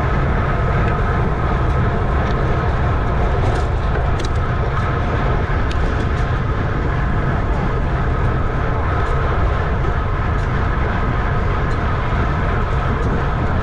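Wind rushing over the microphone of a camera on a road bicycle ridden hard at racing speed, a steady heavy rumble with a faint whir running through it.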